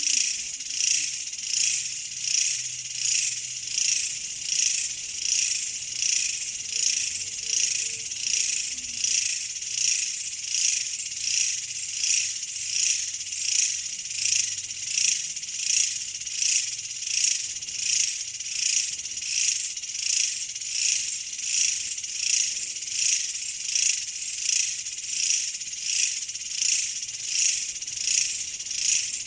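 Insect chorus: a steady high-pitched chirring that swells and fades in an even rhythm, a little more than once a second.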